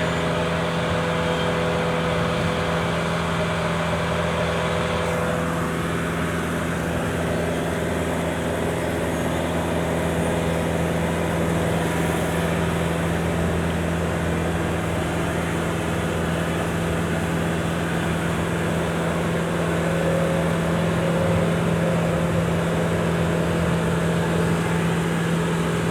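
Boom lift's motor running at a steady, even pitch while the lift is in use.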